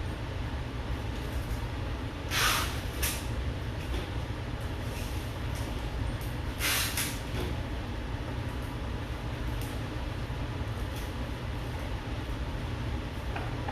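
Paintbrush strokes on canvas: a few short scratchy swishes, about two and a half, three and seven seconds in, over a steady low hum.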